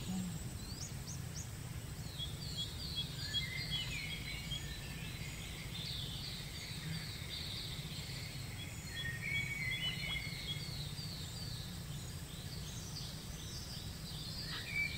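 Birds calling in runs of short, quick, falling chirps, about three a second, over a steady low background hum.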